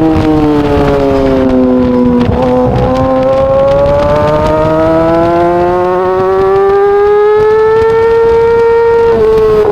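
Yamaha R6 inline-four engine at high revs: its pitch falls over the first couple of seconds as the bike slows, then climbs steadily for about six seconds under acceleration, with a brief dip near the end like a gear change before it pulls up again.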